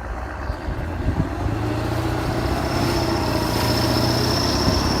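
Kirovets tractor's diesel engine running and growing steadily louder, with a high steady whine joining about two seconds in.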